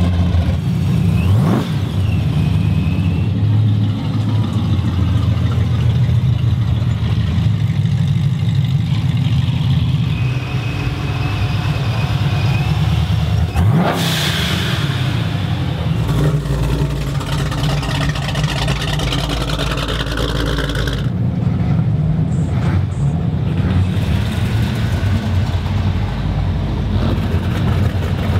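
Car engine running while driving, with two quick accelerations where the engine note sweeps sharply up, about a second and a half in and again about halfway through.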